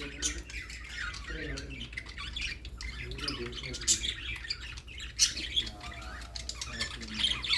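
Parrot squawking and chirping: many short, sharp, harsh calls in quick succession.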